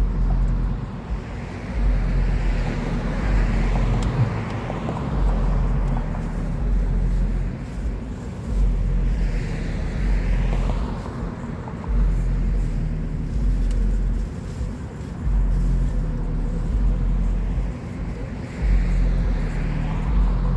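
Low, steady mechanical hum with a deep rumble that swells and drops every couple of seconds.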